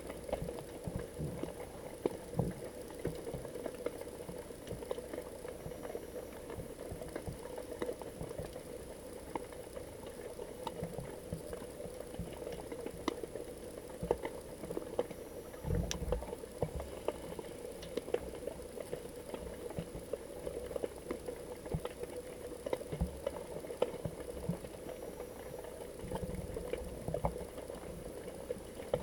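Underwater sound picked up by a GoPro in its waterproof housing: a steady muffled hum with dense crackling and popping like water bubbling, and a few low thumps.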